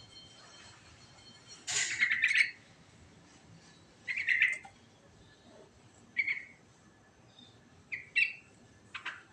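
Yellow-vented bulbul (trucukan) singing short, bubbly chirping phrases, about one every two seconds, the longest and loudest near two seconds in.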